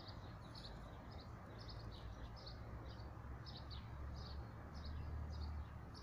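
A small bird chirping repeatedly and faintly, about two short chirps a second, over a low steady rumble of outdoor background noise.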